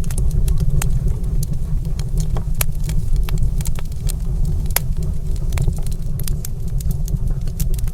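Wood fire in a stone fireplace crackling, with frequent irregular sharp pops and snaps over a steady low rumble.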